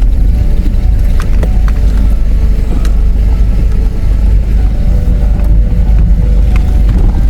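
Four-wheel-drive vehicle driving down a steep, rough river-crossing entry: a steady, heavy low rumble of engine and drivetrain, with scattered short knocks and rattles as it goes over the uneven ground.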